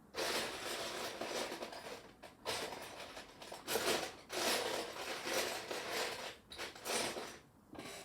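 A hand rummaging through loose plastic Lego pieces, clattering and rustling in repeated bursts while searching for parts.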